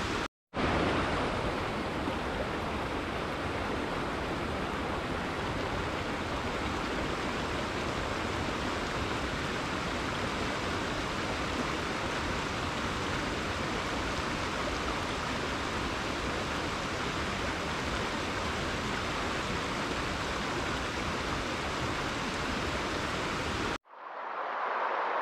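Waves washing on the shore, a steady rushing wash of water. It drops out for a moment just after the start, and near the end it cuts abruptly to another recording of the water that sounds thinner.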